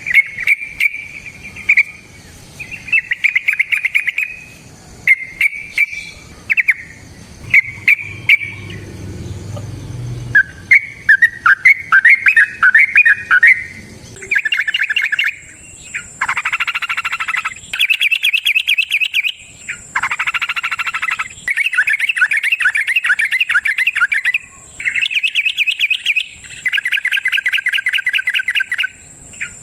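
Yellow-vented bulbul singing: short bubbling phrases at first, then from about halfway longer runs of fast repeated notes in quick succession. A thin, steady high whine sounds behind the song in the second half.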